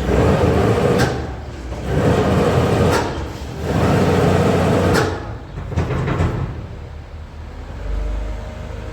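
Farm machinery running with a steady low drone, broken by three loud rushing bursts about two seconds apart, each ending in a sharp clack.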